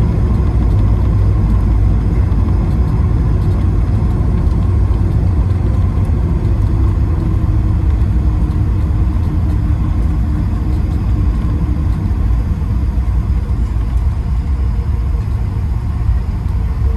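Airbus A220-300 cabin noise: the Pratt & Whitney geared turbofan engines and airframe making a steady low rumble with faint engine tones, easing slightly toward the end.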